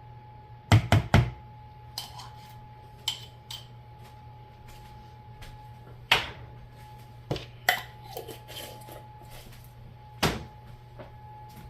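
Kitchen handling noises as seasoning bottles and containers are picked up, tapped and set down on a counter: a quick cluster of three loud knocks about a second in, then scattered single clicks and knocks. A steady low hum runs underneath.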